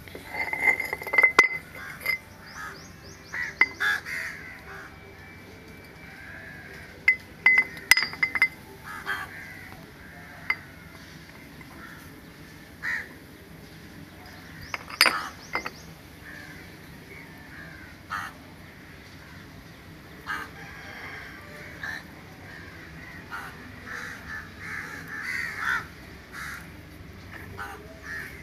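Birds calling repeatedly, with several sharp knocks and clinks as loose outboard engine parts are handled, the loudest about a second in and about fifteen seconds in.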